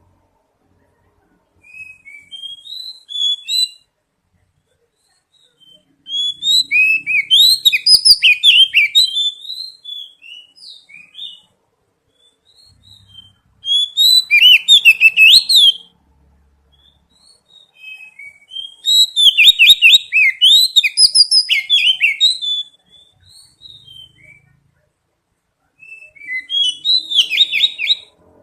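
Oriental magpie-robin singing: five bursts of rapid, varied whistled notes and slurs, each a few seconds long, separated by pauses.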